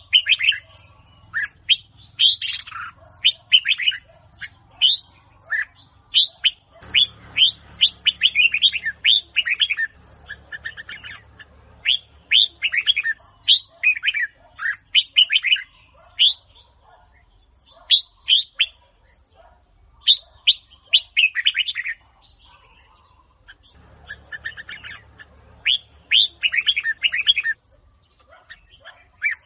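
Red-whiskered bulbul singing: runs of quick, bright chirping phrases with short pauses between them.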